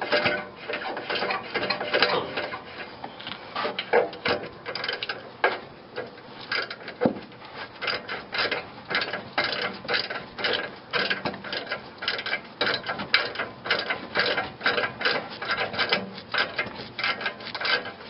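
Hand ratchet wrench clicking in quick, irregular runs as it works a rusted exhaust-muffler bolt, which may only be spinning rather than threading out.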